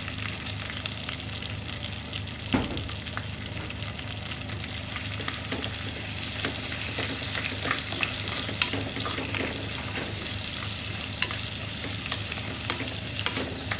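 Garlic, ginger and curry leaves sizzling in coconut oil in a pan: a steady hiss full of small pops and crackles, with a wooden spatula stirring through them. A single louder knock comes about two and a half seconds in.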